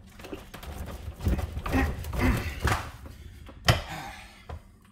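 Straining grunts and heavy breaths of a man hauling on a steel lever clamped in a vise, then a single sharp knock near the end as the lever gives.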